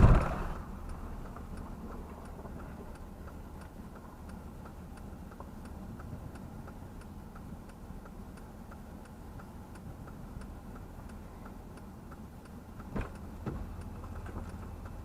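A car's indicator relay ticking steadily, about two clicks a second, over the low hum of the engine inside the cabin. There is a short knock near the end.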